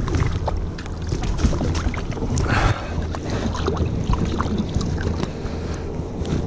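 Wind rumbling on the microphone aboard a kayak, with scattered light knocks and clicks from handling and a short rush of noise about two and a half seconds in.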